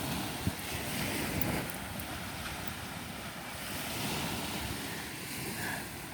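Wind buffeting the microphone over small waves washing onto a beach, with one short knock about half a second in.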